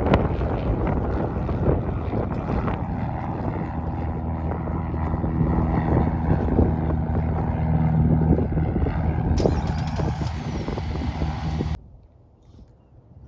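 Engine of a small propeller aircraft running, with wind buffeting the microphone; it cuts off suddenly about twelve seconds in.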